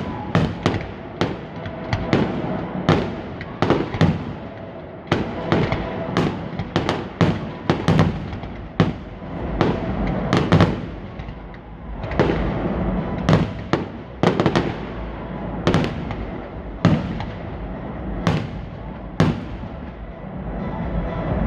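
Fireworks going off: an irregular run of sharp bangs, about one to two a second, over a steady background rumble.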